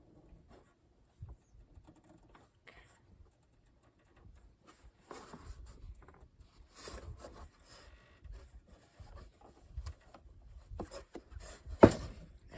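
Scattered small handling noises of tools and metal parts being worked on: scraping, rubbing and light clicks, with one sharp knock near the end.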